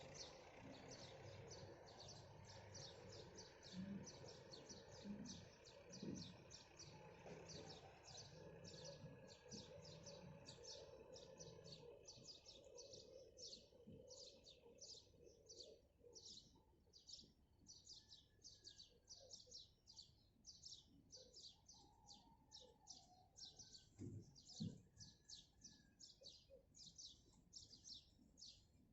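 Birds chirping in a fast, even series of short high chirps, about three a second, with a faint low background noise that fades out about halfway through.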